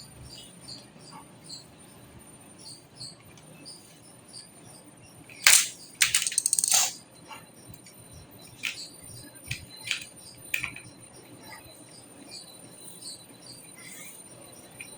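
Clicks and clinks of metal computer hardware being handled: one sharp click about five and a half seconds in, a quick rattling run of clicks just after, then a few scattered light clicks.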